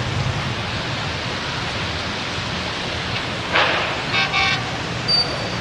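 Heavy rain falling steadily. About three and a half seconds in comes a short noisy burst, followed by a horn giving two short toots.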